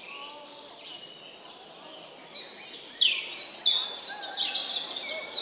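Birds singing: a quiet stretch, then from about two seconds in a rapid run of sharp, falling chirps, several a second, getting louder.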